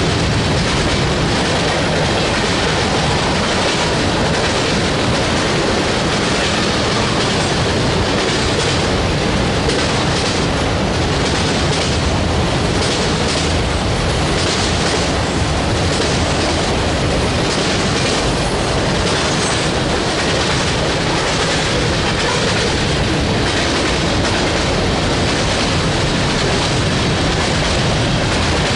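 Railroad cars of a passing train rolling by, steady and loud, with the wheels clicking over rail joints.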